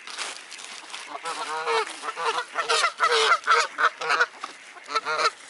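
Waterfowl calling: a rapid run of short, loud pitched calls starting about a second in, several a second, from a group of birds crowding together at feeding.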